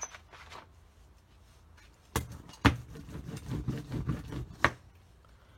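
Small hard objects being handled on a work table: a few sharp clicks and a short stretch of low rattling knocks, with quiet before and after.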